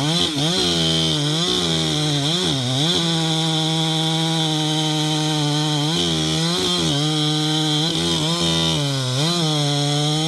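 Husqvarna 372XP two-stroke chainsaw running at high revs, its pitch dropping sharply and recovering several times as the chain loads up in the cut, bucking big Douglas fir.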